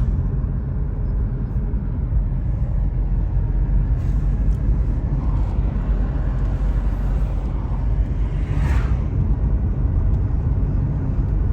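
Steady low rumble of a moving car's engine and tyres on the road, heard from inside the car, with a brief louder whoosh near the end.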